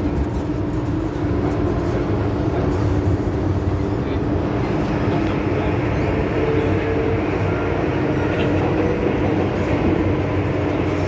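MTR Kwun Tong Line M-Train electric multiple unit running between stations: a steady rumble of wheels on rail and traction noise, with a faint whine in the middle.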